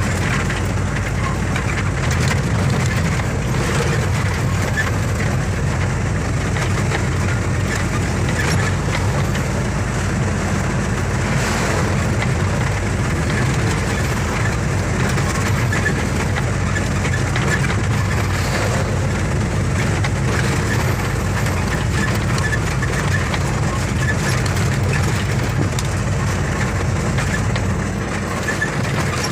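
Heavy truck on the move: a steady, loud, low engine and road rumble that eases slightly near the end.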